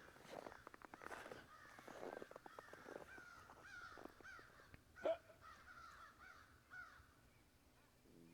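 Faint bird calls, a long run of short calls with one louder call about five seconds in, dying away about seven seconds in.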